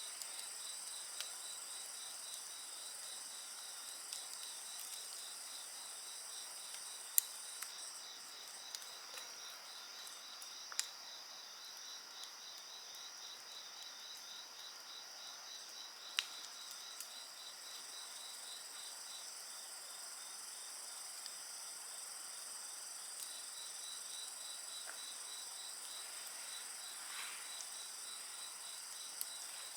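Night insects chirping in steady high trills, one of them a fast, even pulsing, with a few sharp crackles and pops from a wood fire burning, the loudest pops about 7, 11 and 16 seconds in.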